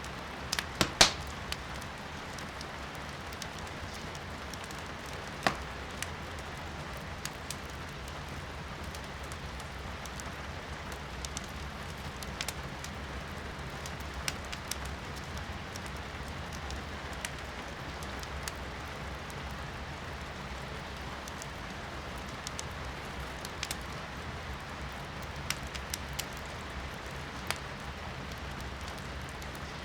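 Firewood burning in a fireplace with sharp crackles and pops, the loudest a little cluster about a second in and one at about five and a half seconds, over a steady hiss of rain heard from inside the room.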